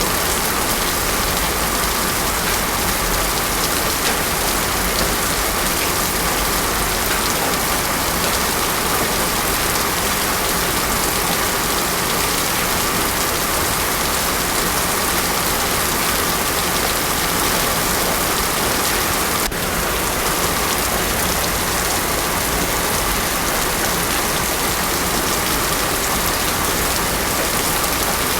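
Heavy rain pouring steadily onto a paved road, with no thunder.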